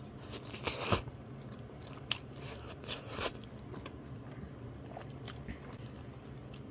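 Close-up eating sounds of a person biting and chewing grilled pig's feet. There is a louder crunchy burst about half a second in, then a few sharper clicks and smacks around two to three seconds in, and softer chewing after that.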